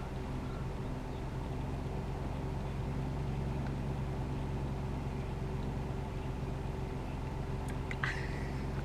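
Vehicle engine idling steadily with a low, even hum. There is a brief click near the end.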